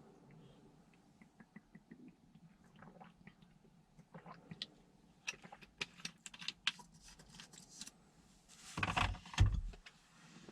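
Scattered small clicks and taps, coming thicker in the second half, with one louder rustle and dull thump about nine seconds in.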